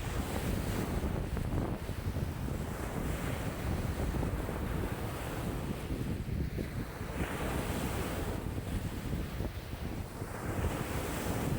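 Lake waves washing in strong wind, with wind buffeting the microphone in a steady low rumble. Washes of water swell and fade every few seconds, the clearest a little past halfway.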